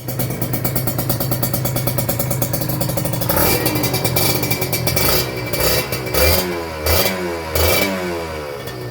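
Kawasaki Ninja RR's single-cylinder two-stroke engine idling through an SCR1 Racing aftermarket galvanized-steel exhaust, then revved with several quick throttle blips from about three seconds in, each dropping back toward idle.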